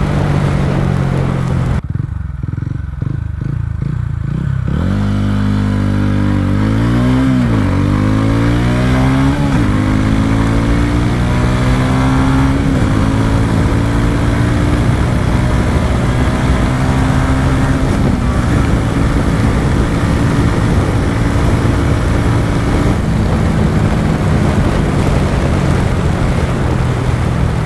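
TVS Ronin's single-cylinder engine accelerating hard: its pitch rises and drops back three times as it shifts up through the gears, then holds steady at speed, easing down twice near the end.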